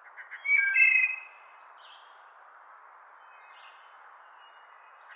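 A songbird singing in a woodland: a short phrase of clear whistled notes at several pitches about a second in, then a few softer notes near the middle, over a steady background hiss.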